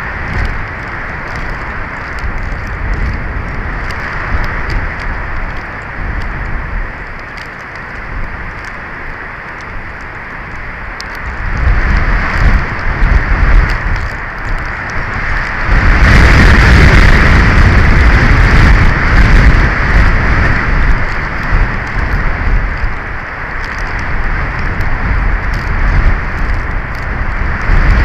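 Strong wind gusting across an outdoor camera microphone: a continuous rushing noise with heavy low buffeting rumbles that swell in gusts, loudest around the middle.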